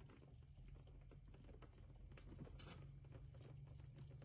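Near silence: faint rain pattering on the window glass in scattered light ticks, over a low steady hum, with a brief soft hiss about two and a half seconds in.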